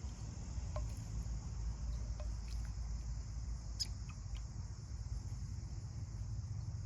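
Steady high insect chorus over a low rumble, with a few short, sharp chirps in the first half, the loudest about four seconds in.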